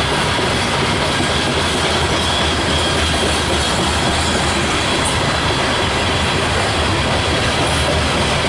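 Loaded coal train's railcars rolling past steadily, wheels clicking over the rail joints, with a faint high wheel squeal.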